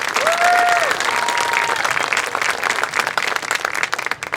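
Crowd applauding and cheering, with a few drawn-out whoops in the first two seconds; the clapping thins toward the end.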